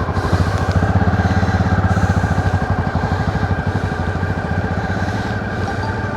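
Suzuki V-Strom adventure motorcycle's V-twin engine running steadily under way, with an even pulse.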